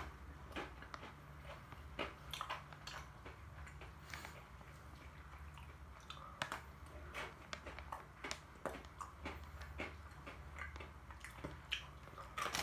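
An almond Pepero, a chocolate-coated biscuit stick studded with almond bits, being nibbled and chewed: a run of small, irregular crunches and mouth clicks.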